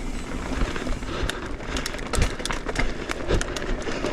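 Mountain bike riding fast down a rough dirt trail: a steady rush of tyres over dirt and rock with many sharp clicks and rattles from the bike as it hits bumps.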